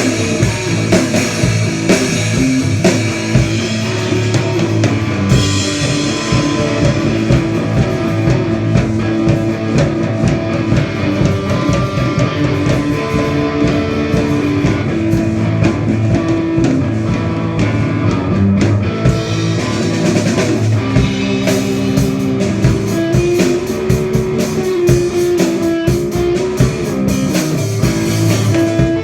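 Rock band playing live: electric guitar over a drum kit, with a steady beat.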